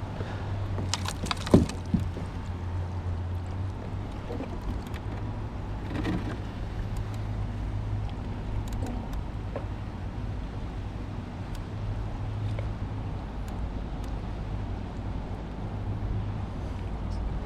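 A steady low hum under wind and water noise, with a few sharp clicks and knocks about a second and a half in.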